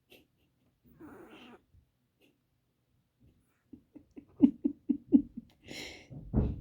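Sleeping chihuahua making small sleep noises: a soft breath, then a quick run of short whimpering pulses, about six a second, then a breathy huff and a louder low sound near the end. These are the kind of noises a dreaming dog makes.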